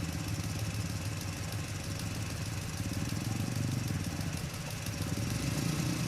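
Mitsubishi truck's diesel engine running steadily at low revs.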